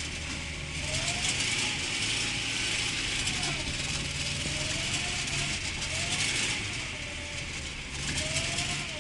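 VAZ Zhiguli car engine running under way, its pitch rising and falling every second or two as the revs go up and down, over a steady hiss of wind and road noise.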